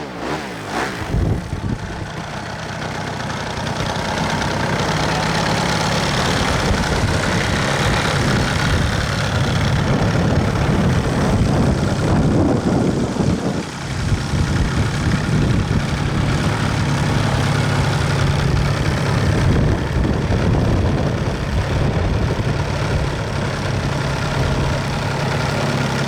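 Radio-controlled model airplane engine running steadily, a continuous drone with a short dip about halfway through.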